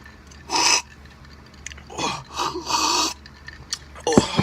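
A person's breathing after a drink of Diet Coke: a short sharp breath, then a longer breathy 'ahh' exhale, with a click near the end.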